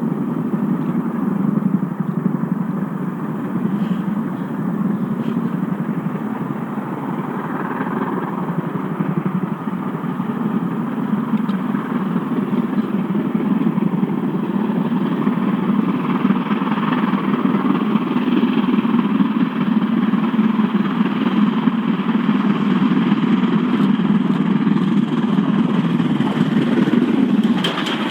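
A vehicle engine running steadily, a continuous low rumble with no break.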